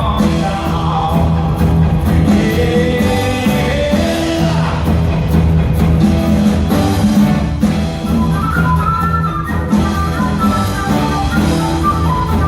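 Live rock band playing, with drum kit, guitar and singing.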